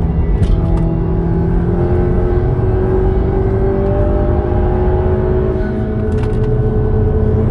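Volkswagen Golf R's turbocharged four-cylinder engine under load, heard from inside the cabin over heavy tyre and road rumble. Its pitch dips about a second in, then rises steadily as the car accelerates.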